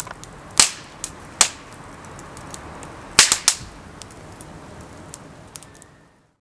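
Wood fire crackling, with a steady hiss and several loud sharp pops among many small crackles, fading out near the end.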